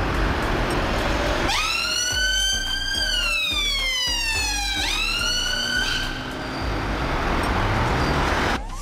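Ambulance siren wailing over a steady rushing road noise: its pitch climbs, sinks slowly and climbs again, then fades out about six seconds in, leaving the road noise.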